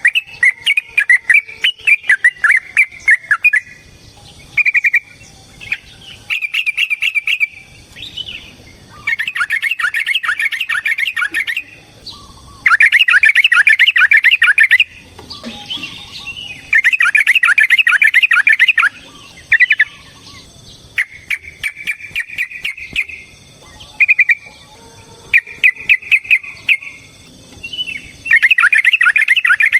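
Yellow-vented bulbul (trucukan) singing a long run of loud, fast, bubbly chattering phrases, each one to three seconds long, with short pauses between them.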